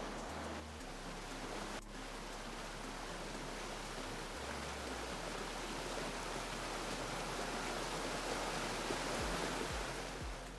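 Mountain stream rushing over rocks: a steady hiss of running water that grows slightly louder toward the end. A low music beat comes in near the end.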